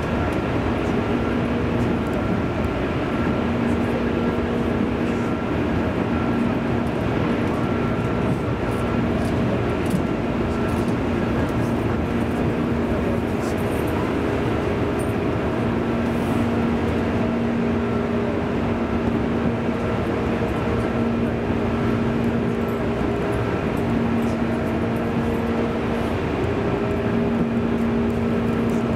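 JR 205 series electric train heard from inside the carriage, running at a steady speed: an even rumble of wheels on rail with a steady motor and gear hum that holds its pitch.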